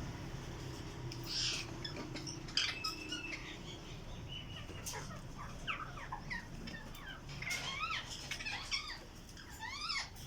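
Alexandrine parakeets calling: scattered short chirps and squawks, with quick runs of rising calls about three quarters of the way in and again near the end.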